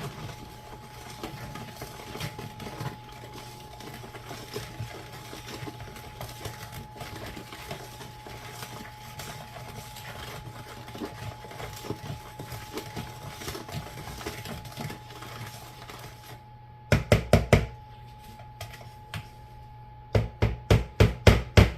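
Sugar, salt, pepper, rice vinegar and oil being stirred together in a mixing bowl: a steady scraping and light clicking of a utensil against the bowl. Near the end come two quick runs of sharp knocks, about five and then about eight.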